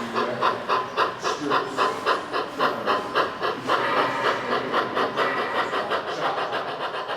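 Sound-equipped On30 model steam locomotive chuffing in a steady rhythm, about four chuffs a second, easing off slightly near the end.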